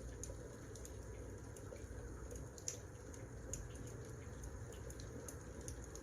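Wood fire crackling: scattered small pops and snaps over a low steady rumble, the sharpest pop a little under three seconds in.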